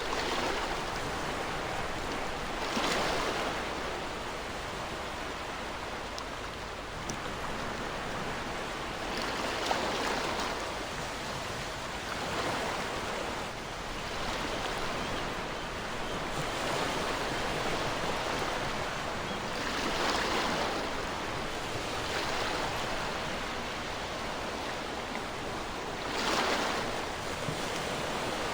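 Ocean surf washing onto a shore: a steady rush of water that swells louder every few seconds as waves break.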